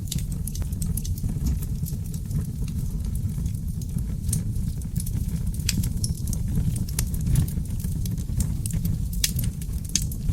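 Oak logs burning in a fireplace: a steady low rumble of flames with frequent, irregular sharp crackles and pops.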